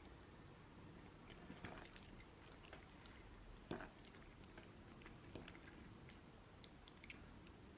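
Faint eating sounds: quiet chewing with scattered small clicks and taps, and one louder tap about three and a half seconds in.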